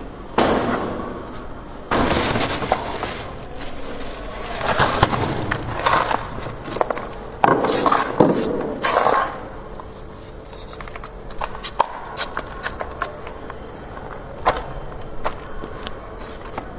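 Freezer frost ice crunching in several loud crackly bursts over the first nine seconds or so, then fainter scattered crackles and clicks.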